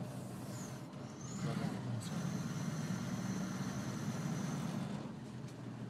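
Car engine running steadily with road noise while driving, heard from inside the cabin.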